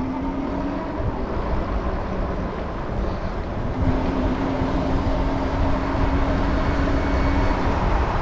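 Riding a Super73 electric bike: wind buffeting the microphone and rolling noise, with a steady motor hum that drops out about a second in and comes back from about four seconds to seven and a half.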